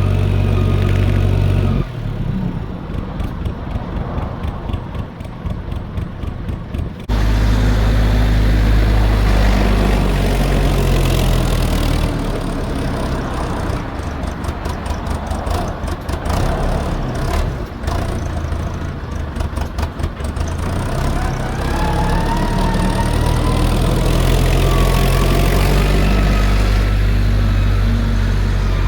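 Fordson E27N tractor's Perkins P6 six-cylinder diesel engine running, with abrupt jumps in the sound a few times as the shot changes and the engine note rising and falling through the second half.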